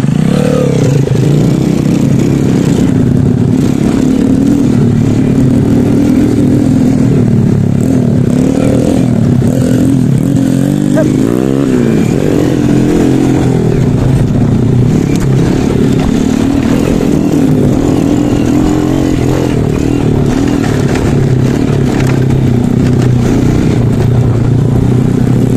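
Honda Supra underbone motorcycle's small single-cylinder four-stroke engine running under load up close, its pitch rising and falling with the throttle as it rides a rutted dirt trail.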